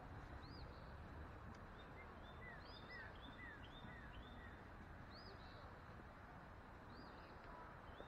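Faint birdsong: many short, high chirps in quick succession, some arching and some falling in pitch, over a low steady rumble.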